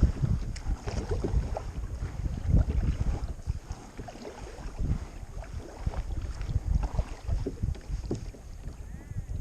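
Kayak paddling: paddle blades dipping and splashing in the water at an uneven pace, with wind rumbling on the microphone.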